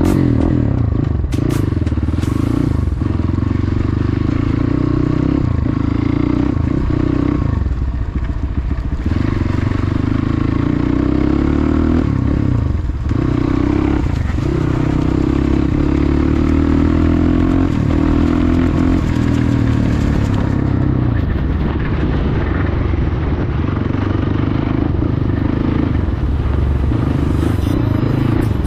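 Motorcycle engine running at low speed on a muddy track, its revs easing off and picking up again a few times.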